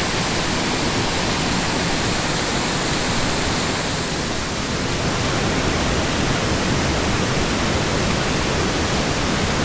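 Waterfall pouring into its pool: a steady, full rush of falling water.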